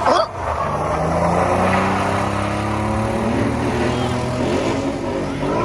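Car engines running hard and revving, the pitch climbing and dropping, with a sharp loud burst just after the start.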